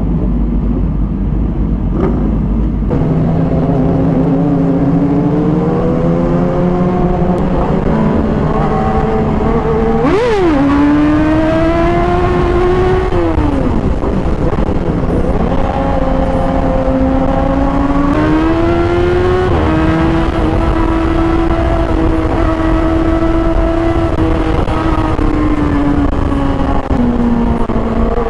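On-board sound of a sport motorcycle's engine: a steady note at first, then pulling away and accelerating, its pitch climbing and dropping back at gear changes, with a quick sharp rev up and down about ten seconds in. A constant low rumble of wind and road noise runs underneath.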